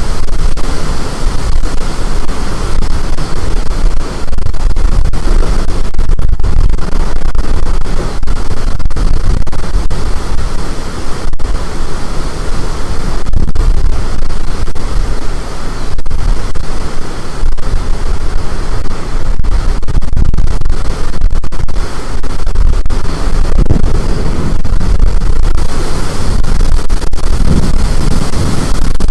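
Storm wind blowing hard across the microphone: a loud, steady rumbling roar that stays near the top of the recording's level.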